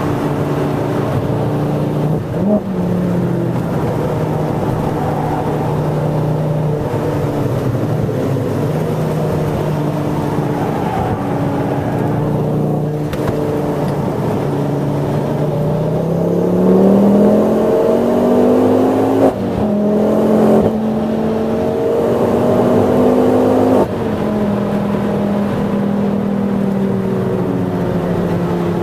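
A 420+ bhp tuned Ford Focus ST's turbocharged five-cylinder engine heard from inside the cabin, pulling hard at track speed. About halfway through its note climbs steadily, then drops sharply a few times as it shifts up.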